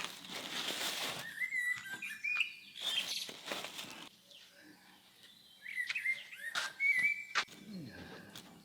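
Small birds chirping in short whistled calls, with a rustle near the start and a few sharp clicks or knocks.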